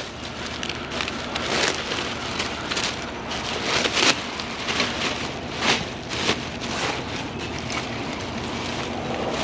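Rustling and clattering as items in a curbside junk pile are handled and rummaged through, in irregular short bursts over a steady background hiss.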